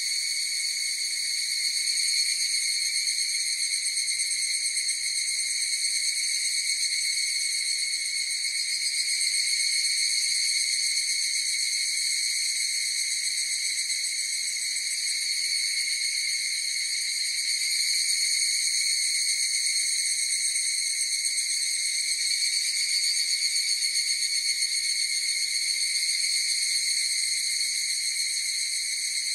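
A chorus of higurashi evening cicadas (Tanna japonensis) calling together: a continuous high-pitched ringing drone that swells and eases gently every few seconds.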